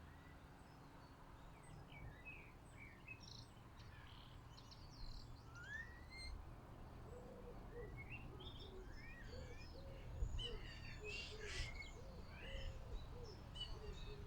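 Several small garden birds chirping and calling, short rising chirps overlapping one another and growing busier in the second half. A lower call repeats quickly from about halfway on.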